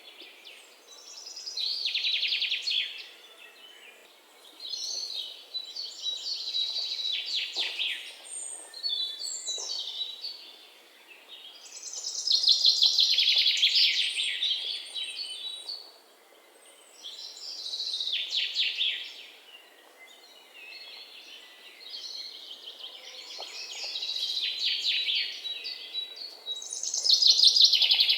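Songbirds singing: repeated high, rapid twittering trills, each phrase lasting a second or two and coming every few seconds, over a faint outdoor hiss.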